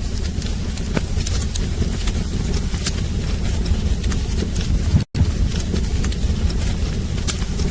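Wood fire burning in a fireplace: a steady low rumble of flame with irregular sharp crackles and pops. About five seconds in the sound drops out completely for a split second, then resumes.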